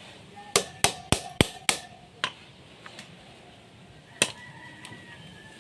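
Sharp knocks, as of tapping on metal parts: a quick run of six about a third of a second apart, then a single knock about two seconds later, with a faint ring after the strikes.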